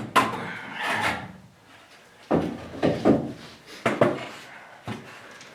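A wooden brace being worked and knocked into place in a timber frame: wood rubbing on wood at first, then a few sharp knocks.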